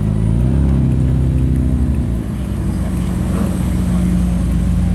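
A car engine running close by. Its note changes with a short dip about two seconds in, then holds a steady pitch.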